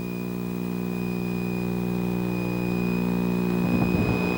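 Twin piston engines of a Piper Seneca droning steadily, heard from inside the cockpit, growing gradually louder, with a thin steady high-pitched whine over them.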